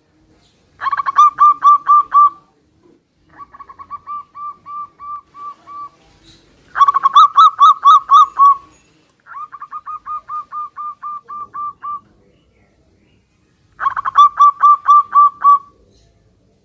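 Zebra doves (perkutut) cooing and answering each other, five phrases in turn. The three loud phrases each open with a quick stutter followed by a run of about five evenly spaced coos. Between them come two quieter, longer runs of about eight to ten coos, as if from a second, farther bird.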